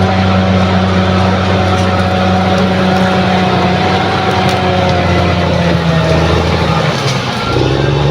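Bulldozer's diesel engine running loud and steady. Its pitch sags about seven seconds in, then picks back up near the end.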